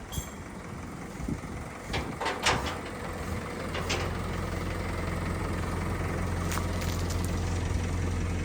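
A few knocks and clatters about two seconds in, then a vehicle engine idling with a steady low hum from about halfway through.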